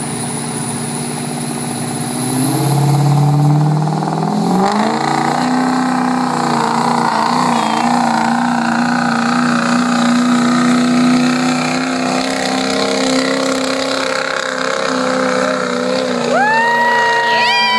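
Ford 6.0 L Power Stroke turbo-diesel V8 in a 2005 F250 pulling a sled under full throttle. About two to five seconds in, the revs climb, then they hold high and steady under load, with a thin high whistle rising early on. A high tone comes in near the end.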